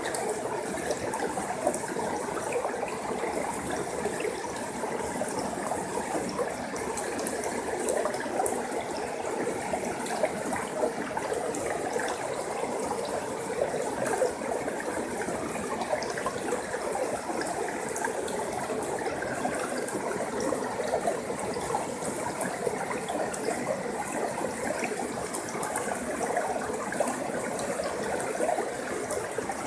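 A forest stream flowing steadily over rocks, an even burbling wash with fine splashes and trickles.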